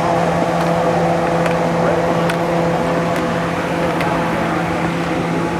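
A steady mechanical drone at one unchanging pitch, with a few faint ticks scattered through it.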